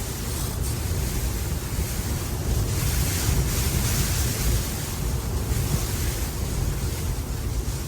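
Blizzard wind blowing hard and gusting, rising and falling every second or two, with wind rumbling on the microphone.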